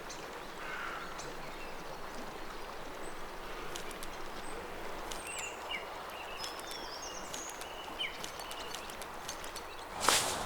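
Bush ambience: a steady outdoor background hiss with scattered short bird chirps. Near the end comes a sudden loud rustle and crunch, like footsteps pushing through undergrowth.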